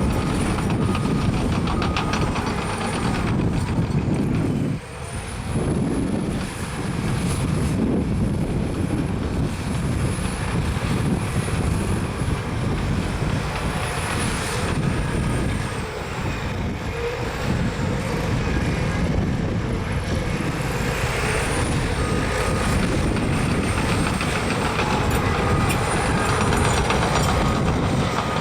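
Caterpillar crawler bulldozer's diesel engine running steadily as it works the ground, with a brief drop in loudness about five seconds in.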